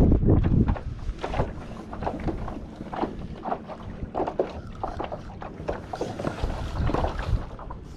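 Small irregular slaps of water against a kayak hull in choppy, windy water, with a gust of wind buffeting the microphone at the start.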